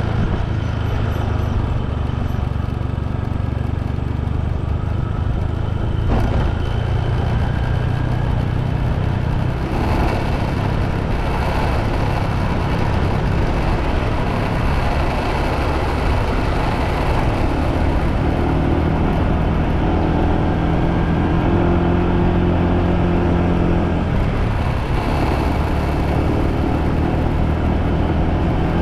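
Motorbike riding along a road, its engine running steadily under a constant rushing road and wind noise, with a clearer pitched engine drone from about 18 to 24 seconds in.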